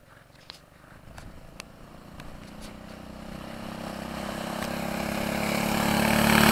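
Minibike engine running at speed and growing steadily louder as it approaches, from faint to loud by the end. A few faint clicks sound in the first few seconds.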